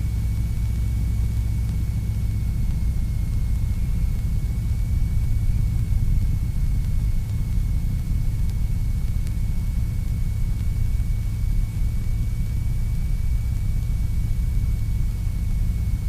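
North American T-6's nine-cylinder Pratt & Whitney R-1340 radial engine running steadily in flight, a deep even drone heard from the cockpit, with a thin steady high whine over it.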